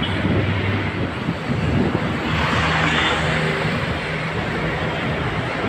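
Road traffic: the engines of motor vehicles running close by over a steady haze of road noise, with a louder rush of noise about two seconds in as a vehicle passes close.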